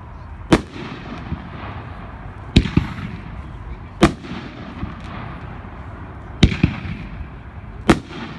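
Winda 'Addicted to Loud' 500-gram fireworks cake firing: five sharp, loud bangs spaced about one and a half to two seconds apart, two of them doubled, each with a brief echo.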